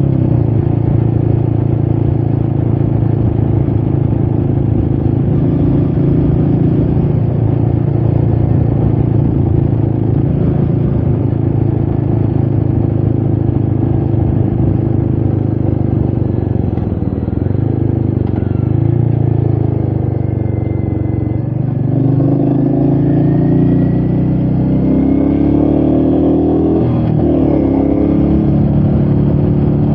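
Royal Enfield Meteor 350's single-cylinder engine running under way, heard from the rider's position. Its note holds steady, dips about two-thirds of the way through, then picks up again and shifts pitch as the bike accelerates and changes gear.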